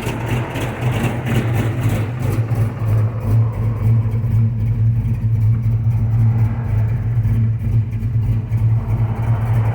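Ford Mustang GT V8 with an aggressive cam, idling through a loud exhaust with an uneven, loping chop.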